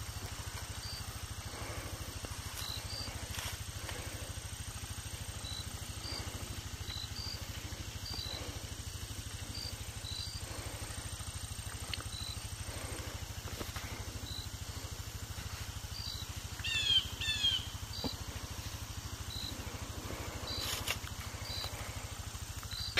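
Birds in woodland: short high chirps every second or so, with a louder run of falling calls about 17 seconds in, over a steady low rumble.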